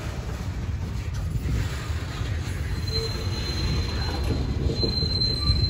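Freight train of hopper cars rolling past, its wheels on the rail making a steady low rumble. A thin, high, steady wheel squeal starts about halfway through.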